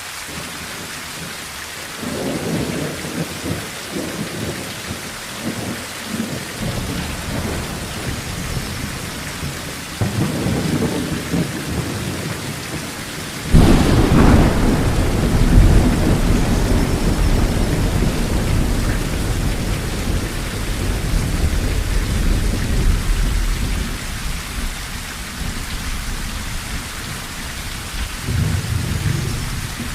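Steady rain drumming on a tin roof through a thunderstorm, with low rolls of thunder. About halfway through, a sharp thunderclap is followed by a long rumble that dies away, and another rumble comes near the end.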